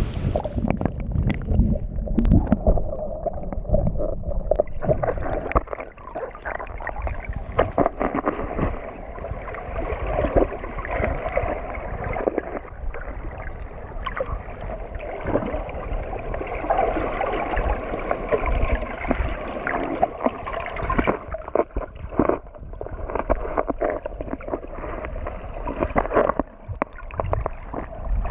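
Muffled sloshing and gurgling of seawater around a camera taken underwater while snorkeling, with many small knocks against the housing.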